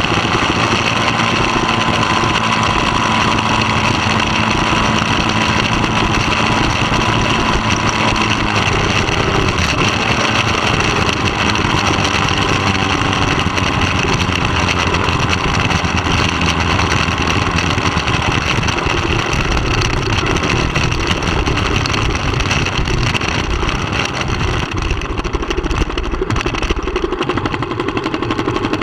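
Middleweight superbike's engine running steadily under way, with a constant rushing noise over it. The highest hiss thins out over the last few seconds.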